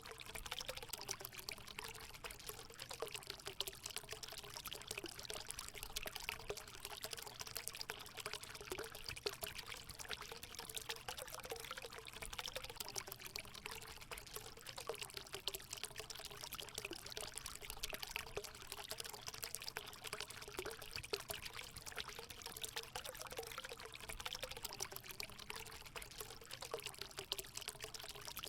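Water running and pouring steadily into a hot spring pool, a continuous trickle with a light, wavering gurgle.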